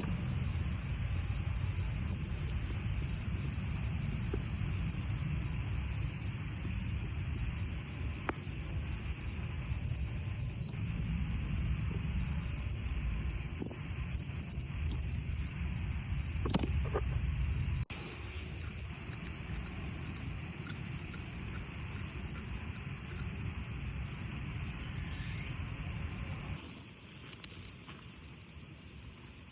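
Autumn crickets and other insects chirping in a steady, high-pitched chorus, over a low rumble and a few faint clicks. The rumble drops away near the end.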